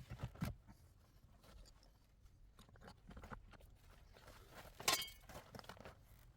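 Irregular crunches and knocks from hand work, with one sharp clack about five seconds in.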